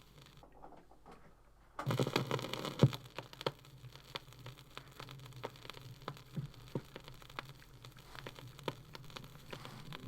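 Vinyl record surface noise: a stylus crackling in the groove between tracks, with scattered sharp clicks and pops. It starts about two seconds in, after a near-silent gap.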